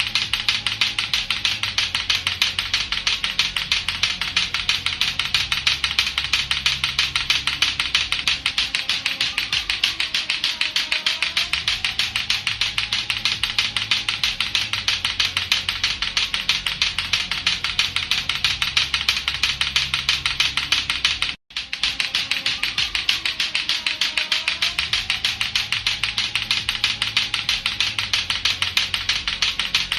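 Lato-lato clacker toy, two hard plastic balls on a string knocking together in a rapid, steady stream of clacks, with a brief break about two-thirds of the way through.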